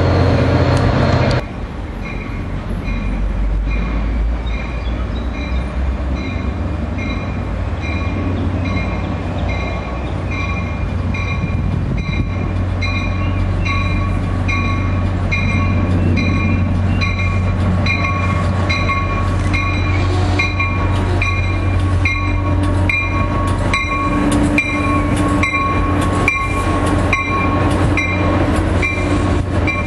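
Commuter train led by an NJT GP40PH-2 diesel locomotive approaching and passing, with a steady diesel drone that grows louder toward the end, when rapid wheel clicks come as the coaches go by. A bell dings steadily about once a second over the train noise.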